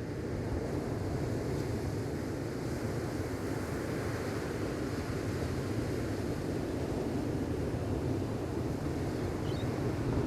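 Gentle ocean waves washing onto a sandy beach, a steady low rush that swells slowly. A brief faint high chirp comes near the end.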